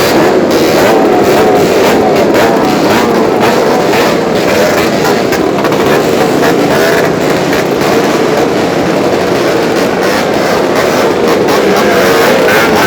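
Many motorcycles with open, unmuffled exhausts running and revving at once, a loud dense din of overlapping engine notes that keep rising and falling.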